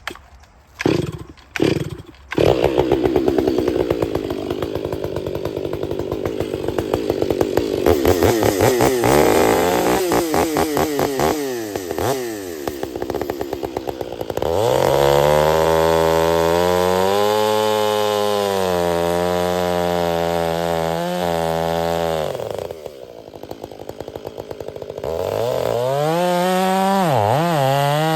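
Stihl MS 500i fuel-injected two-stroke chainsaw with a freshly hand-filed 3/8 Oregon chain. It gives a few short bursts, then runs at high revs cutting through a log. It drops to idle about 23 seconds in, then revs up again near the end.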